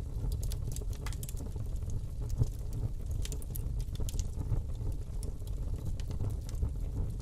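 Fire burning in a fireplace: a steady low rumble of flame with frequent, irregular sharp crackles and pops.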